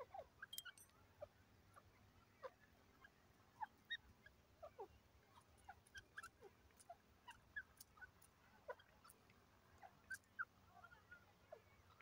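Birds chirping softly: many short, scattered chirps and quick downward-sliding notes, a few each second, with faint clicks among them.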